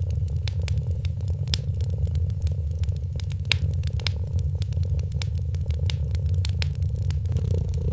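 Cat purring in a steady low rumble, with a wood fire crackling over it in scattered sharp pops and snaps.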